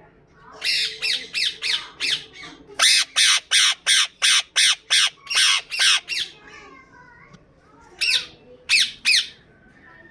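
Indian ringneck parakeet screeching: short, harsh calls repeated in a fast run of about a dozen in the middle, with a few scattered calls before and three more near the end.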